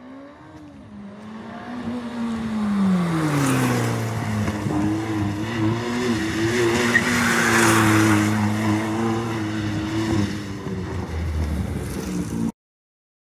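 Abarth 595 Pista's 1.4-litre turbo four-cylinder running through its new quad-pipe exhaust as the car drives past slowly. The engine note falls as it slows for a couple of seconds, then holds steady while the car draws closer and gets louder. The sound cuts off abruptly near the end.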